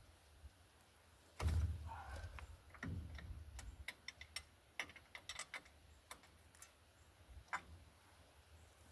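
Hand tools and metal parts being handled during suspension work: a dull thump about a second and a half in, another about three seconds in, then a run of sharp, irregularly spaced clicks and ticks.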